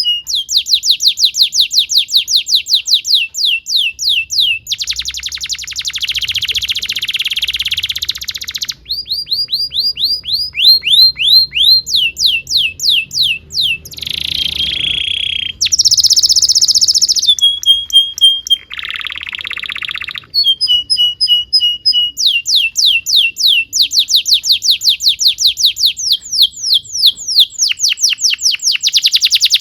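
Domestic canary singing a long, unbroken song: fast series of repeated downward-sliding notes alternating with buzzy rolls and short held whistles, the phrase changing every few seconds.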